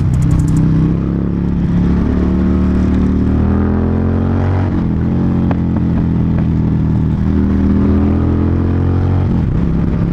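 Motorcycle engine running under way, its pitch climbing and then dropping sharply about halfway through and again near the end, as with gear changes.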